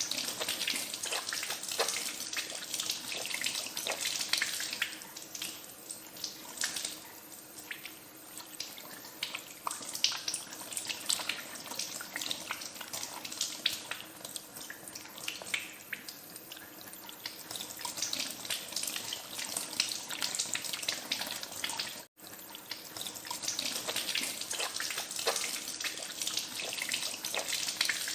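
Hands being washed under a running tap: a steady hiss of falling water with frequent small splashes. The sound drops out for a split second about 22 seconds in, then resumes.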